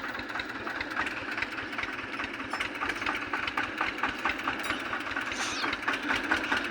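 Tractor engine running steadily with a rapid run of short knocks.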